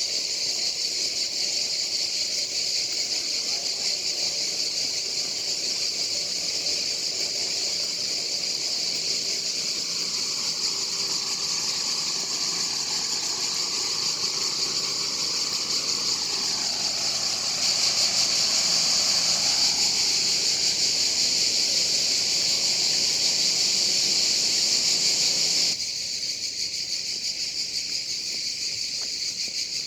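A steady, dense chorus of insects chirring in high-pitched vegetation. It grows louder a little past halfway, then drops back suddenly near the end.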